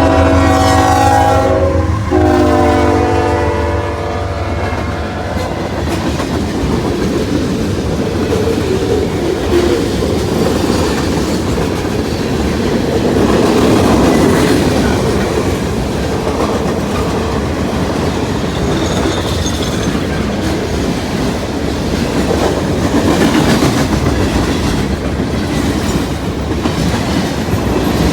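Freight train passing: the lead locomotive's horn sounds a multi-note chord whose pitch drops about two seconds in as it goes by, ending a few seconds in; then the freight cars roll past with a steady rumble and wheel clatter over the rail joints.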